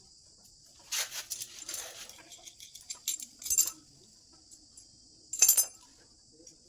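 Small metal clinks and clatter in several short bursts, the loudest about five and a half seconds in, over a steady high chirring of crickets.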